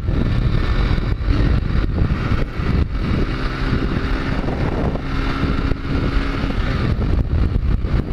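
Honda CG 160 Fan's single-cylinder four-stroke engine running hard while the motorcycle is ridden at speed, with strong wind noise on the microphone.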